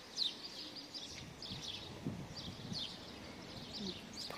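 Small songbirds chirping, many short high chirps in quick succession over faint outdoor background noise.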